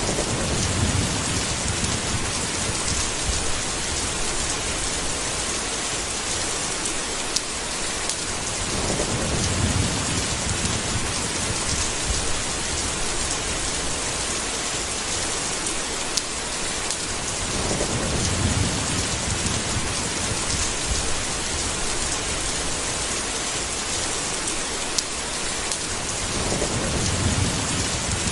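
Steady heavy rain with thunder, which rolls in low four times, about every nine seconds. A few single sharp ticks of drips stand out from the rain.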